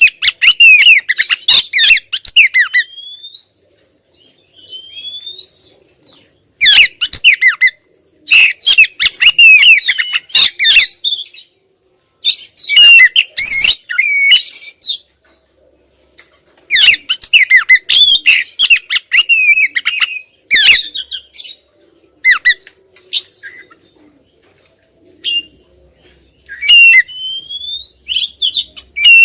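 Oriental magpie-robin (kacer) calling in bursts of quick, varied whistles and harsh chattering notes, each burst a few seconds long with short pauses between, thinning to a few scattered single notes near the end.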